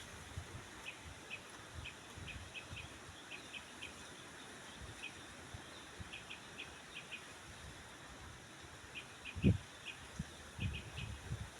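Faint bird chirping: short high chirps in small clusters of two or three, repeating irregularly over a soft steady outdoor hiss. A low thump comes about nine and a half seconds in, followed by a few softer ones.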